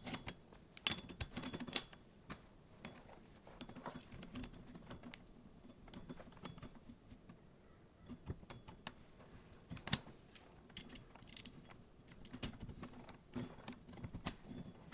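Light, scattered clicks and taps of small hard parts being handled, with a sharper click about ten seconds in.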